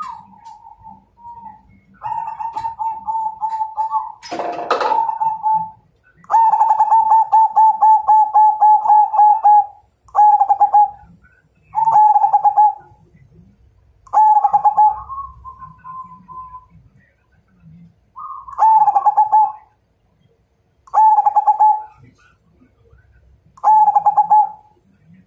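Zebra dove (perkutut) cooing: a long, rapidly pulsing coo, then short coos repeated about every two seconds. A sharp knock sounds about four and a half seconds in.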